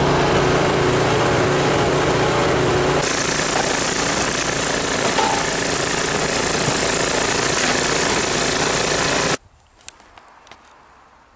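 Snowblower engine running loudly and steadily, its tone changing about three seconds in. It cuts off suddenly near the end, leaving quiet with a few faint clicks.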